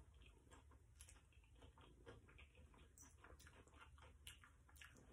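Faint chewing with irregular small mouth clicks over a low, steady room hum.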